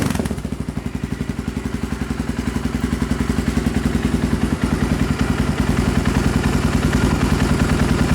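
Suzuki DR350's single-cylinder four-stroke engine idling loudly through a Danmoto aftermarket straight-through exhaust, with a steady, even beat. The engine is switched off right at the end.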